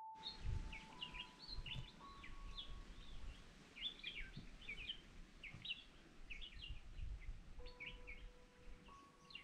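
Wild birds chirping in a busy run of short, quick calls, with a low rumble underneath.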